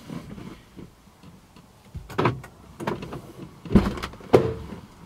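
Car doors and people getting into a car: a few knocks and thuds, the two loudest about half a second apart near the end.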